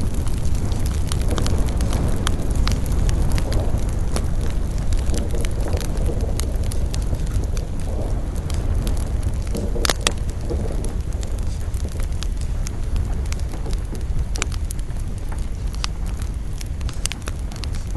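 Campfire burning with a steady low rumble and irregular crackles and pops, one sharper pop about ten seconds in.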